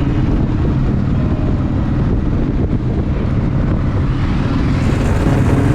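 Steady wind rumble and road-vehicle engine noise on a GoPro's microphone while travelling at speed, dominated by deep low rumble.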